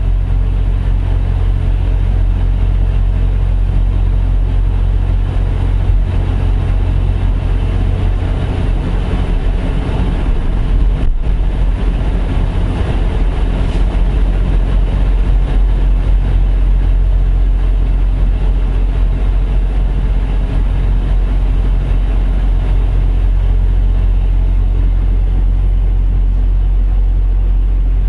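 Heavy diesel truck engine idling steadily, with a swell of louder engine noise from about eight to sixteen seconds in.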